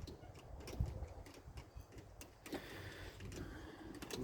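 Faint, scattered clicks and light taps, as of hand tools and parts being handled while work goes on around an engine.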